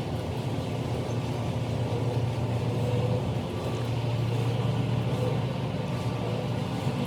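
Ford F-350 pickup in an automatic car wash: a steady low engine hum with an even hiss of wash machinery over it.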